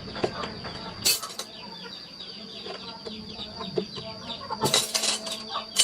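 Hand carving chisel cutting into wood in two short scraping strokes, about a second in and near the end, against a background of chirping birds and clucking chickens.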